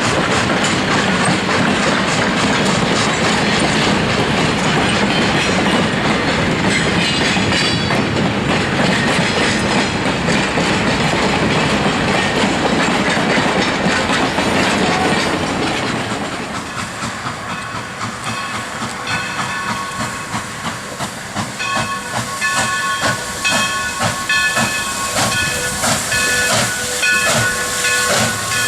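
Southern Pacific 4-6-2 steam locomotive No. 2472 working an excursion train, a loud rush of steam and running noise. A bit over halfway through the noise eases, and a ringing tone, struck over and over at a steady beat, takes over.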